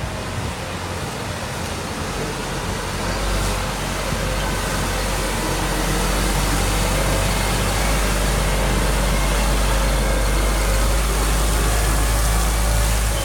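Diesel engine of a Freightliner M2 water truck (CAT C7) running steadily; its low rumble grows stronger about three and a half seconds in and then holds.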